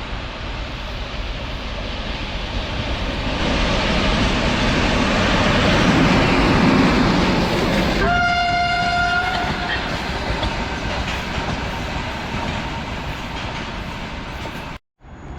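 ChME3 diesel shunting locomotive passing: its engine and running gear on the rails swell to a peak and then fade. About eight seconds in, it gives one horn blast lasting about a second and a half.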